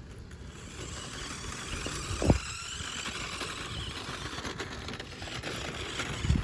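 Remote-control rally car driving, its motor and wheels making a steady high hiss, with a low thump about two seconds in and another near the end.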